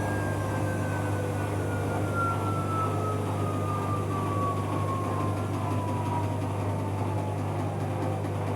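Bauknecht Super Eco 7615 washing machine in its spin cycle. The inverter motor's whine falls steadily in pitch as the drum slows, over a steady low hum.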